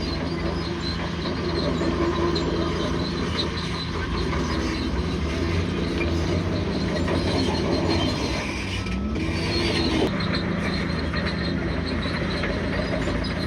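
Bulldozer working, its diesel engine running steadily, with a brief rising tone about nine seconds in and an abrupt change in the sound about ten seconds in.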